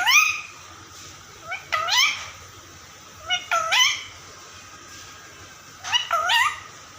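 Parrot giving a meow-like call four times, each a short call that sweeps sharply up in pitch.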